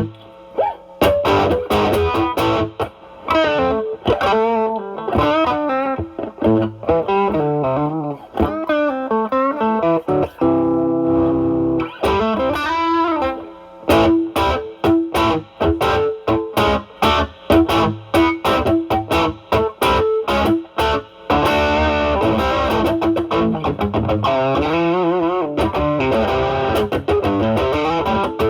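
Electric guitar (Stratocaster with single-coil pickups) played through an Ibanez Tube Screamer Mini overdrive, its drive at 1–2, into a Marshall Valvestate amp on its overdrive channel: mildly distorted improvised lead lines with bent notes and vibrato. One note is held about ten seconds in, and fuller chord playing follows in the second half.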